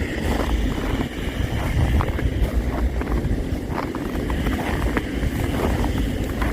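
Strong wind buffeting the microphone: a steady, gusting low rumble with scattered faint clicks.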